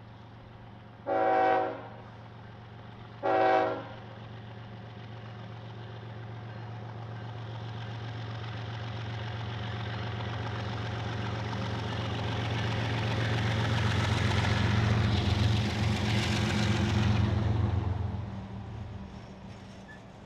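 Two short blasts of a diesel locomotive's horn, then the engines of a freight train's lead locomotives growing steadily louder as they pass close by. The engine sound drops away sharply about 18 seconds in, leaving the quieter sound of the freight cars rolling over the rails.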